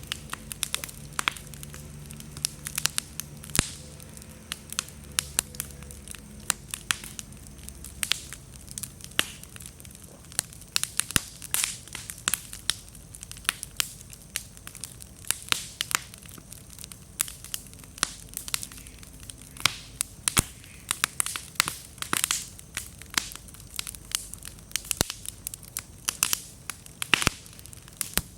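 Wood bonfire crackling, with frequent sharp irregular pops and snaps over a soft hiss of flame. The firewood is slightly damp, which makes it pop and throw many sparks.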